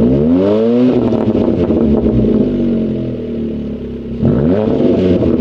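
Fiat Panda 100HP's 1.4-litre naturally aspirated four-cylinder engine running under way. Its pitch climbs quickly at the start and again about four seconds in, holding fairly steady in between.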